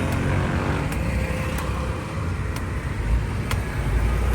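Motorcycle engine and road traffic running steadily while riding, with a heavier low rumble of wind on the microphone about three seconds in.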